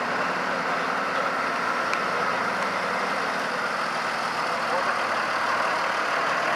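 Tractor engines running steadily at low revs, with indistinct voices in the background.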